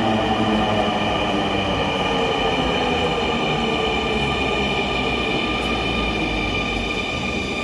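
Dhaka Metro Rail train running, a steady mix of rumble and noise with a high whine and lower tones that drift slowly down in pitch.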